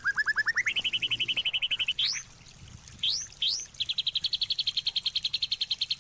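A songbird singing in rapid trills of quick repeated notes: the first climbs in pitch, then holds steady higher up. Short upward-sweeping whistles come around two and three seconds in, then a longer, higher trill.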